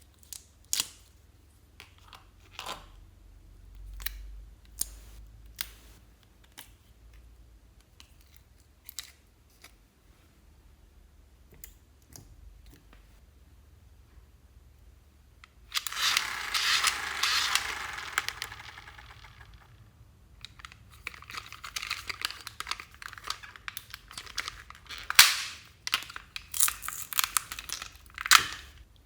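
Slime being handled and mixed: scattered sticky pops and clicks, with a dense stretch of crackling about halfway through and a longer crackling, popping stretch later on.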